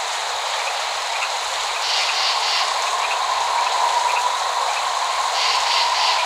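Steady rain falling, with a thin steady tone underneath and short bursts of insect chirping about two seconds in and again near the end.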